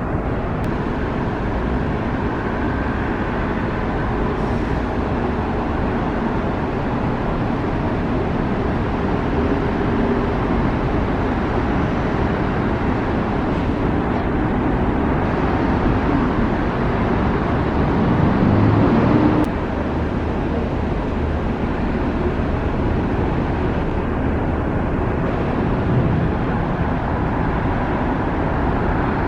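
Steady road traffic noise: vehicles running past on a city street, briefly louder a little past the middle before dropping back.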